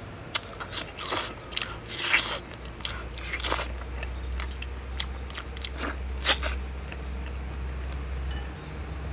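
Close-up mouth sounds of someone biting and chewing a braised pig's trotter: irregular wet smacks and crunchy bites, most frequent in the first four seconds, then sparser.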